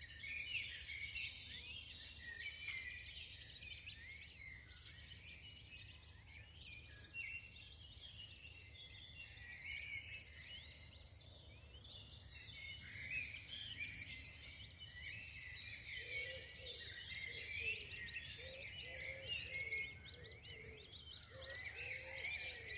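Birds chirping and calling densely and without a break, over a steady low rumble. From about two-thirds of the way through, short low calls repeat about twice a second under the chirping.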